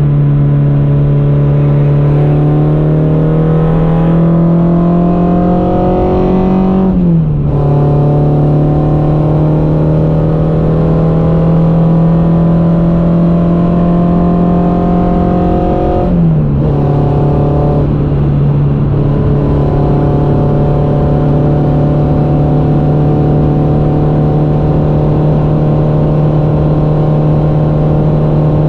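Peugeot 106 Quicksilver's four-cylinder engine under full throttle, heard from inside the cabin over road and tyre noise. Its pitch climbs slowly as the car pulls, drops sharply with an upshift about seven seconds in and again about sixteen seconds in, then climbs again.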